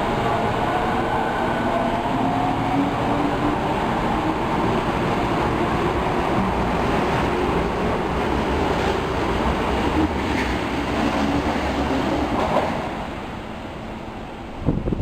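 Osaka Metro Tanimachi Line subway train running along the platform, its motor whine rising in pitch over the first few seconds as it gathers speed. The rumble fades away about two-thirds of the way through, and a single sharp knock follows near the end.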